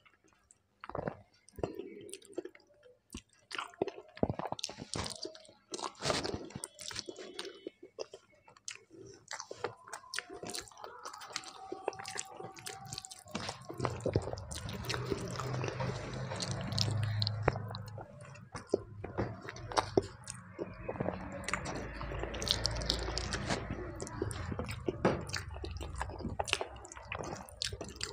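Wet chewing and lip smacking with a full mouth, with fingers squishing rice mixed with lentil dal on a steel plate.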